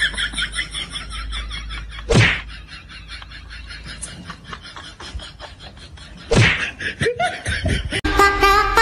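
Someone laughing in a quick run of bursts, then two loud thumps about four seconds apart.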